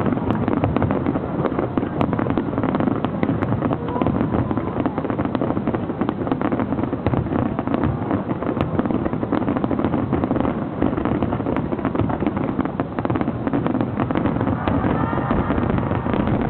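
Fireworks finale barrage: a dense, continuous stream of overlapping bursts and crackles with no gaps between them.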